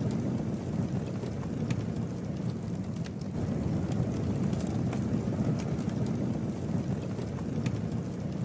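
Campfire burning: a low, steady rumble of flames with scattered sharp crackles and pops.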